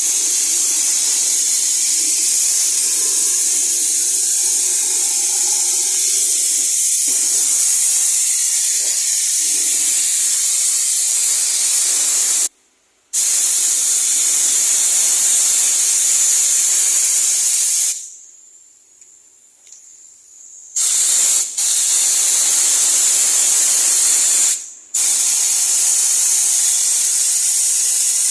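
High-pressure cleaning spray gun hissing in long continuous bursts. It cuts off briefly about 12 seconds in, stops for a few seconds near the middle, and breaks again briefly near the end.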